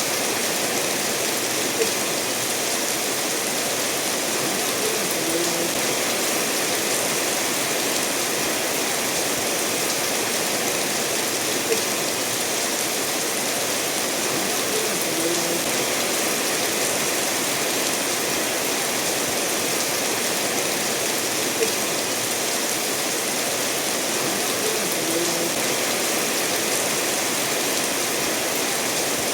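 Steady rainfall mixed with a stream running over stones, an even rushing hiss. A small short plink recurs about every ten seconds, three times.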